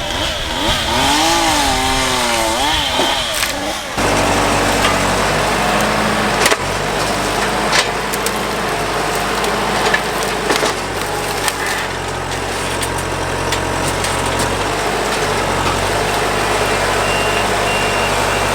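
A chainsaw revving up and down for a few seconds, then a steady engine running with scattered sharp knocks and cracks of wood. A faint beeping starts near the end.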